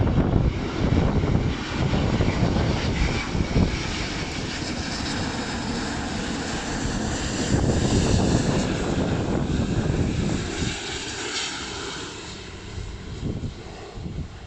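Airbus A350-900's Rolls-Royce Trent XWB turbofans passing close on landing approach: a loud jet rumble whose hissing whine swells past its peak about two-thirds of the way through, then fades away.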